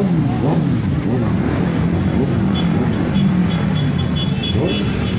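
Many motorcycle engines running and revving together as a column of bikes rides past. A high pulsing tone joins about halfway through.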